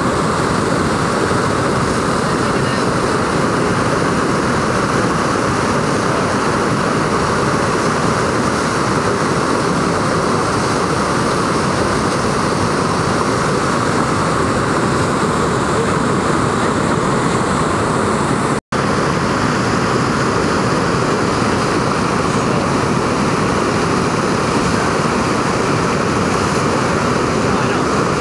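Steady rushing of whitewater in the Skookumchuck Narrows tidal rapids, unbroken except for a split-second dropout about two-thirds of the way through.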